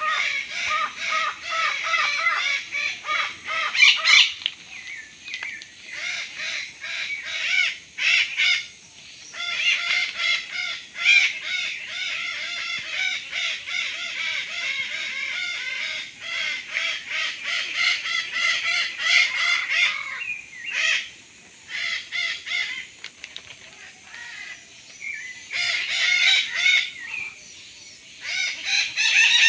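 A flock of parrots screeching and squawking in dense, overlapping harsh calls, with a couple of short lulls about two-thirds of the way through.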